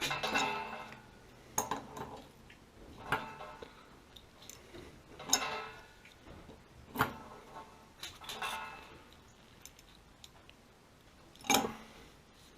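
Irregular metal clinks and knocks, about eight in all, several ringing briefly, as of tools and fittings being handled during plumbing work. The loudest knock comes near the end.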